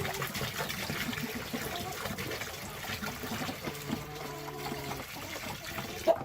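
Water being poured into a chicken waterer, trickling and splashing steadily. There is a brief loud knock near the end.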